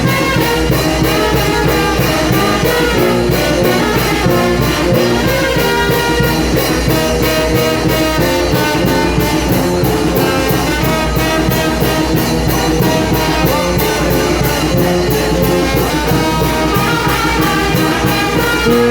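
A Mexican brass band (banda) playing live, with trumpets and trombones over a steady drum and cymbal beat.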